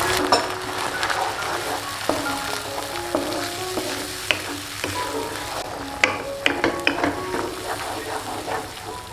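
Chili spice paste and sauce sizzling in a nonstick wok as a wooden spatula stirs it, with a few sharp clicks of the spatula against the pan. Light background music plays a melody of short notes.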